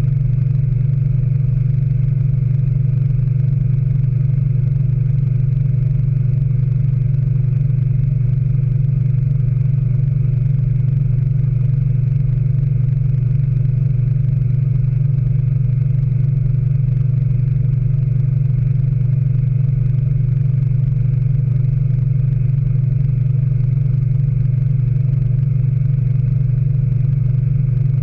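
Speed Queen AWNE92 washing machine in its final spin, running at a steady speed with a strong, even motor hum and a few steady higher tones over it.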